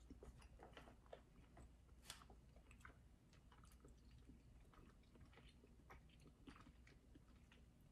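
Faint chewing of chewy wine gum candies: soft, wet mouth clicks scattered throughout, with a sharper click about two seconds in.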